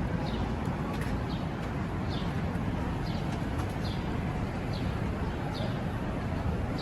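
A small bird chirping again and again, a short high note falling in pitch about once a second, over a steady low rumble of outdoor city background noise.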